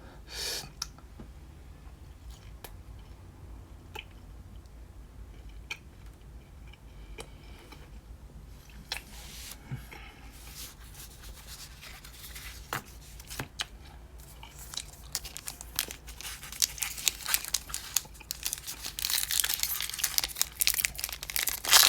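Foil packaging crinkling and tearing, which builds up from about fifteen seconds in and is loudest near the end, after a quieter stretch of scattered small clicks.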